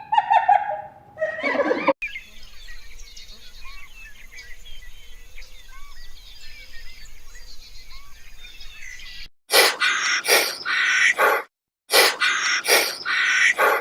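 A brief pitched animal call that falls in pitch, then a chorus of small birds chirping for several seconds, then loud short animal calls in quick runs from about two-thirds of the way in.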